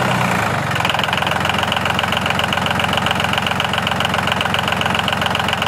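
An engine running steadily with a fast, even knocking beat; its tone shifts a little about a second in.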